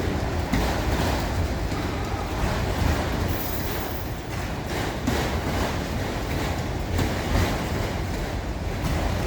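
A train rolling past: steady rumble of wheels on the rails with irregular sharp knocks as the wheels cross rail joints.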